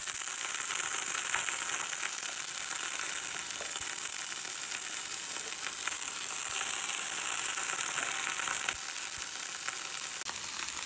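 Chontacuros (palm-weevil grubs) frying in hot oil in a cast-iron skillet: a steady sizzle with scattered pops, the grubs still wet from a soak in water.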